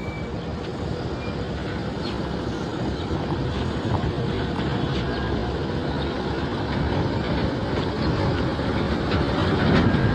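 Road traffic: vehicles running and passing on a busy road, a steady low rumble that grows a little louder towards the end.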